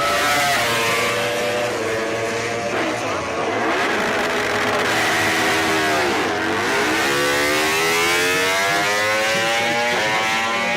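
MotoGP racing motorcycle engines running at high revs, several engine notes rising and falling in pitch, with a sharp drop and climb about halfway through.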